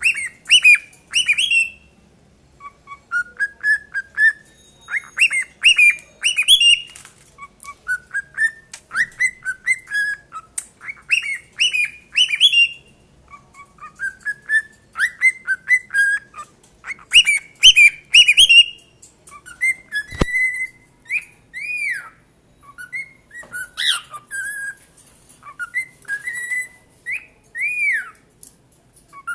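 Young pet cockatiels whistling their song: repeated phrases of short, rising whistled notes, a new phrase every second or two. There is one sharp click about twenty seconds in.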